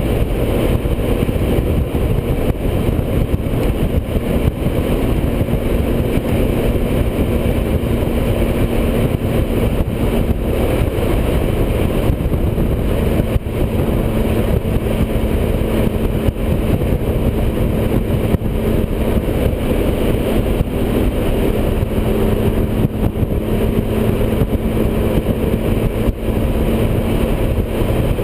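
Motorcycle running steadily at highway speed: a low engine drone under a heavy, steady rush of wind noise on the microphone.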